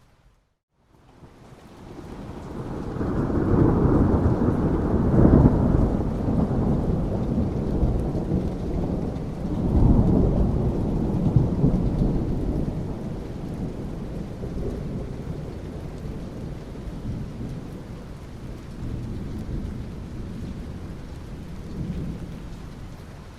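Rolling thunder over steady rain. After a brief moment of silence at the start, a deep rumble builds, swells twice, about five and ten seconds in, then slowly dies away while the rain hiss continues.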